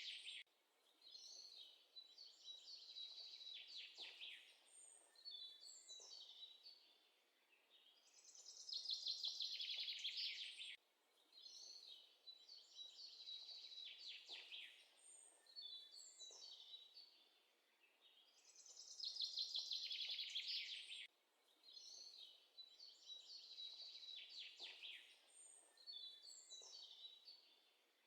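Faint birdsong: high chirping and trilling phrases a few seconds long with short pauses between them, the same sequence repeating about every ten seconds.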